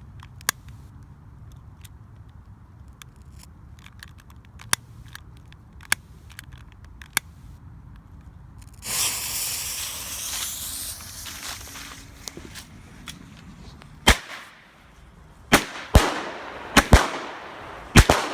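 Showtime "Party On" consumer firework cake going off: scattered single pops, a hissing rush about nine seconds in, then from about fourteen seconds loud sharp bangs that come closer together toward the end.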